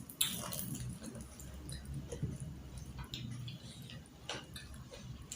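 Mouth chewing crispy fried cabbage: scattered small crunches and clicks, irregular, about one every half second to a second.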